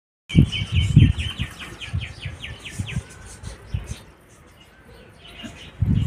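A small bird calling in a rapid, even series of high chirps, about seven a second, for a couple of seconds, with low thumps beneath at first.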